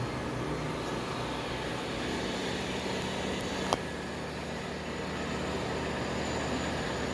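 Ecovacs Deebot U2 Pro robot vacuum running, a steady whir from its suction motor, with one sharp click about halfway through.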